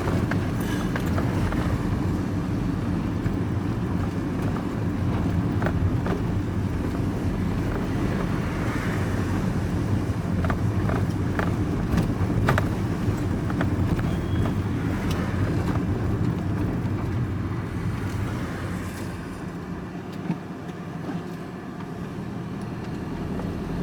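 Vehicle being driven, heard from inside the cab: steady engine and road rumble with a few faint clicks, easing off a little for a few seconds near the end.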